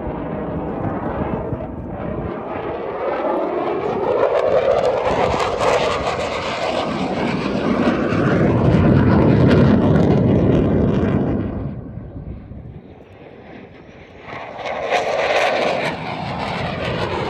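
Aircraft flying past overhead: a loud rushing engine sound with sweeping, shifting tones that builds to its peak a little past halfway, drops to a lull about twelve seconds in, then swells again as another pass comes near the end.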